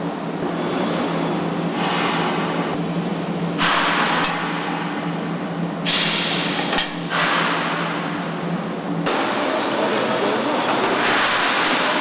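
Truck assembly-line factory noise: a steady machine hum with short hissing bursts and a few sharp clanks. The hum stops abruptly about nine seconds in.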